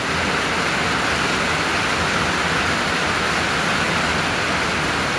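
Steady, loud rain pouring down and drumming on a roof, an even dense hiss.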